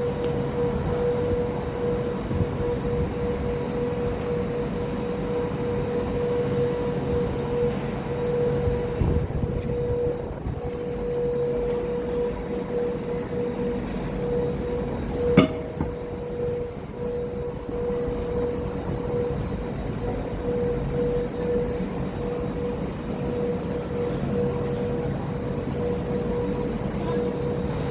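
Train noise: a steady rumble with a constant whine throughout, and one sharp click about halfway through.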